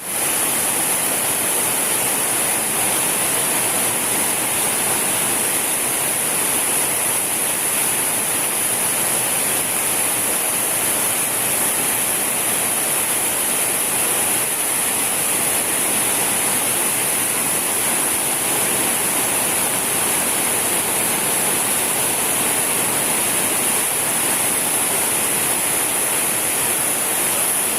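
Waterfall: a steady, unbroken rush of falling water, with a constant high-pitched hiss above it.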